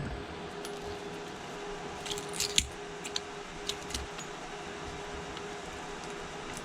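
A small hand tool clicking and scraping against the iPhone XS Max as the tape holding down the back glass is cut away, a short cluster of sharp clicks about two to four seconds in, over a steady faint hum.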